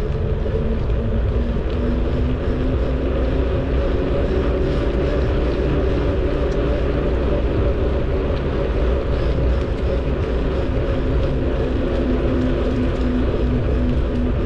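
A moving bicycle: steady wind rumble on the microphone and road noise from the bike, with a constant low hum running under it.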